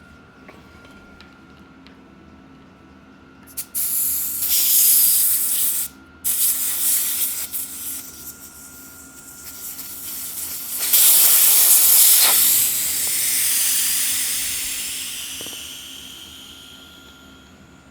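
Air hissing out of a bicycle tire valve as the tire is let down: a few short bursts, then one long release that fades away slowly as the pressure drops.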